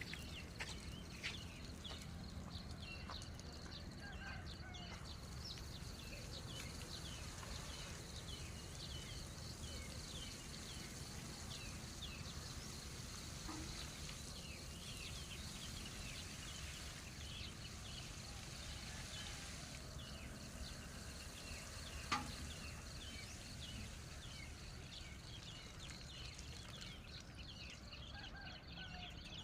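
Rural outdoor ambience: many short, quick bird chirps over a steady high insect drone and a low background hiss, with a single sharp click about two-thirds of the way through.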